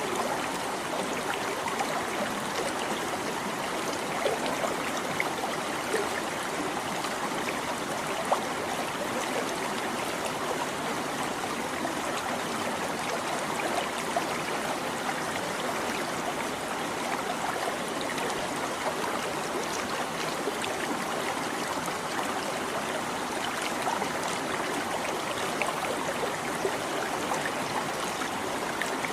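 A babbling stream: water trickling and gurgling over stones, a steady rush with small scattered splashes and plinks.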